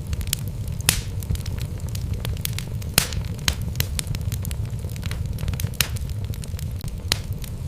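Wood logs burning in a fireplace: a steady low rumble of the flames with irregular sharp crackles and pops, the loudest about three seconds in.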